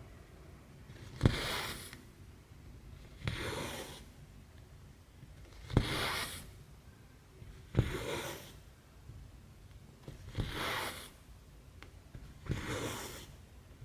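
Cross stitching by hand: thread drawn through stamped 11-count cross stitch fabric, six times at an even pace of about one stitch every two seconds, each a sharp tick followed by a brief rasping swish.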